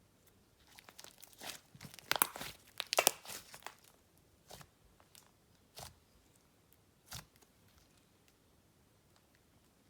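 Clay slime being squished and stretched by hand, giving a dense run of sticky crackles and pops, then a few single pops about a second apart.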